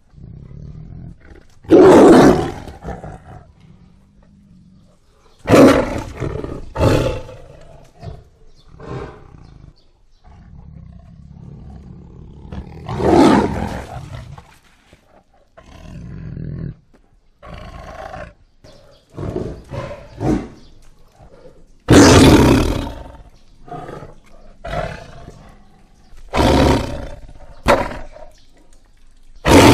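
Tiger roaring: a series of loud roars a few seconds apart, with quieter, lower growls between them.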